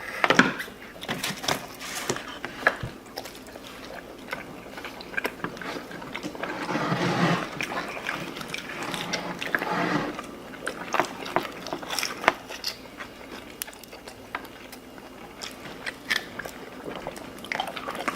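People eating pizza fast at close range: biting and chewing, with scattered short clicks and taps, busier and louder around the middle.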